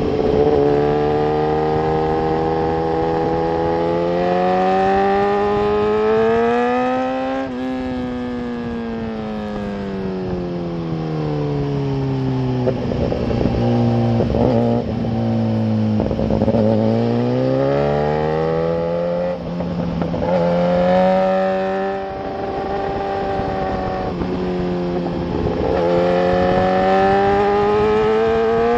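Motorcycle engine at speed on a race track, its pitch climbing for the first several seconds, falling steadily to its lowest near the middle as the bike slows, then climbing again twice toward the end, with wind rush over the bike-mounted microphone.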